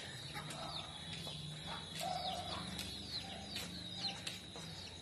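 Birds chirping in short falling notes over a steady high-pitched insect drone.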